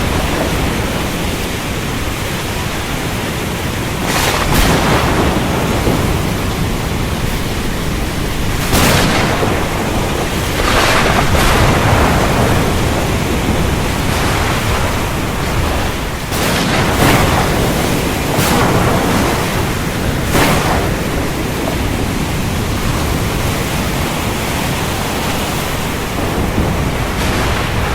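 Heavy rain falling steadily in a dense hiss, broken by several sharp thunder cracks and rumbles, most of them in the first two-thirds.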